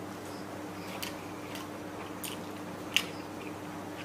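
A person chewing a mouthful of fried rice with soft, wet mouth smacks repeating every half second or so, and one sharper click just before three seconds in.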